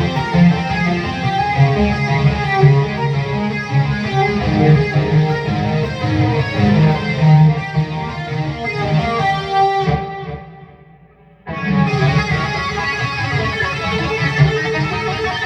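Electric guitar, a PRS SE Hollowbody II with humbuckers, played through a Peavey Vypyr X2 modelling pedal with a distortion tone: a continuous run of riffing and lead lines. The playing dies away about ten seconds in and starts again abruptly a second and a half later.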